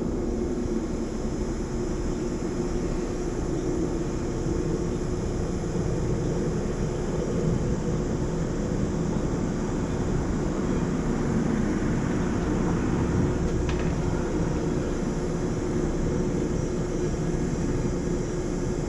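Air-conditioner condenser running steadily: the outdoor fan blowing and the variable-speed compressor humming with one constant tone.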